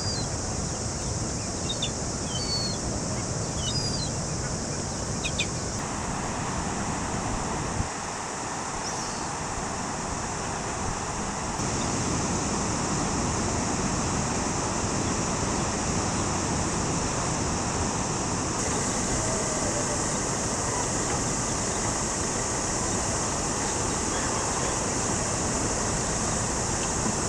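Steady rushing roar of surf and swollen floodwater after heavy rain, with a few short bird chirps in the first several seconds. It gets somewhat louder about twelve seconds in.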